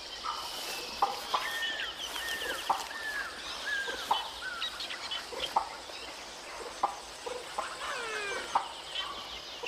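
Lemurs giving alarm calls: a rapid series of short clucking calls, each falling in pitch, repeated about every half second, against a fossa on the hunt.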